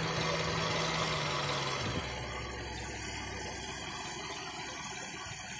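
Car engine idling steadily. About two seconds in, a steady hum drops away and the sound gets a little quieter.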